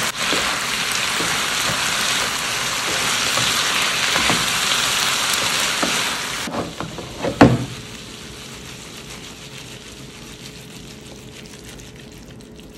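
Fried cauliflower, onion and capsicum in sauce sizzling in a frying pan while being stirred with a wooden spatula. About seven seconds in the spatula knocks against the pan a few times, and the sizzle then drops to a faint hiss.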